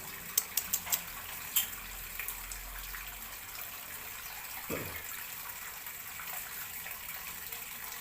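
Steady rushing hiss like running water, with a few sharp clicks in the first second and a half and a brief falling sweep near the middle.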